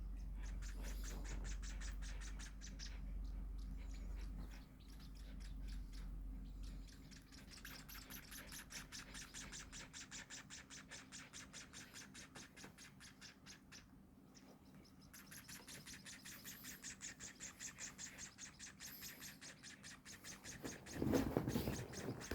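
Baby munias giving rapid, high begging chirps in long runs of many calls a second, stopping and starting again twice. A louder scratchy rustle comes in near the end.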